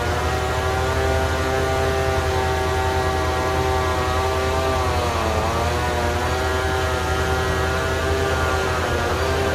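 Chainsaw engine held at high revs, with its pitch sagging briefly about five seconds in and again near the end as the chain bites into the wood. A low, steady engine drone runs underneath.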